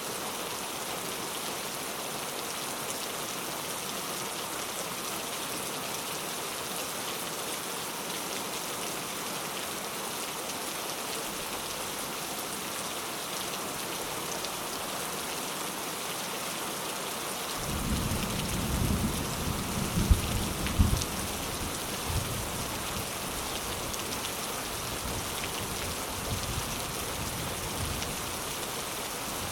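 Steady rain falling. A little past halfway a low rumble of thunder comes in, loudest for a few seconds, then rolls away under the rain.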